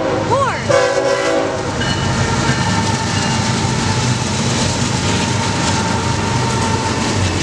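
BNSF freight train's diesel locomotives blowing a multi-tone horn chord that cuts off about a second and a half in, then the steady rumble and wheel clatter of the locomotives and intermodal container cars passing close by.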